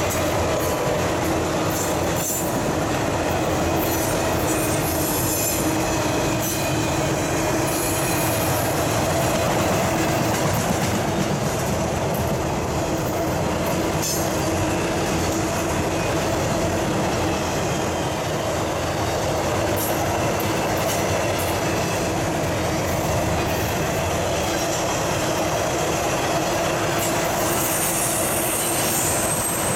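Double-stack intermodal freight cars rolling past at steady speed: a continuous rumble and rattle of wheels on rail. A faint steady tone runs under it, with occasional clicks.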